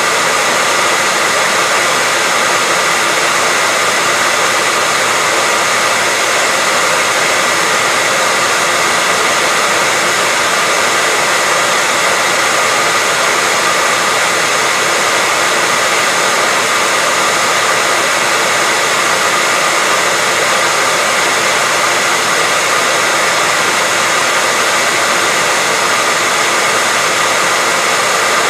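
Hair dryer running steadily: a constant, even whooshing hiss with a faint whine in it, used as white noise for sleep.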